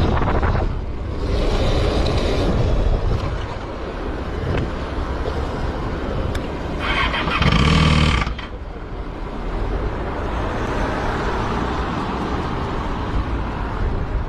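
Kawasaki motorcycle engine running, with a louder stretch of about a second and a half a little past halfway. The engine has a fault that the uploader ties to the connecting rod.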